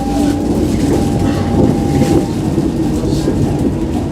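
Tram running along the track, with the rumble and clatter of wheels on rails and a steady whine that stops a little over halfway through.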